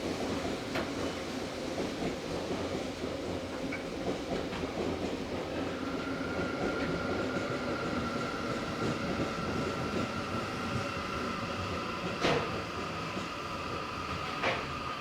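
Tokyo Metro Series 16000 car interior standing at the terminus platform before departure: a steady hum of onboard equipment and ventilation. A steady high tone comes in about six seconds in and holds, and there are two sharp knocks near the end.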